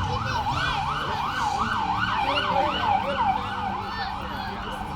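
Emergency vehicle siren in a fast yelp, its pitch rising and falling about three to four times a second, fading away shortly before the end.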